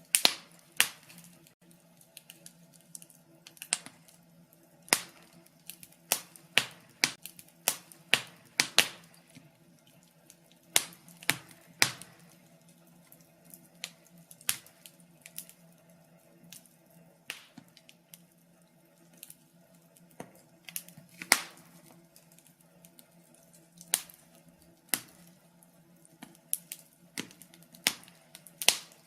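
Wood fire in a fireplace crackling: irregular sharp pops and snaps, sometimes several in quick succession, over a faint steady low hum.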